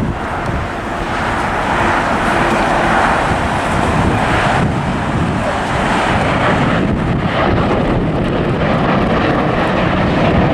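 Jet airliner's engines at takeoff thrust as it climbs out, a loud, steady rushing roar.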